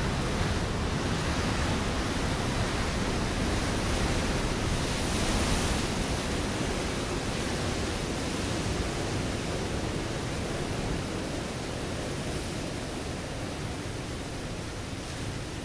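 Ocean surf washing over a rocky shore: a steady rush of water that slowly dies away, with a brief swell about five seconds in.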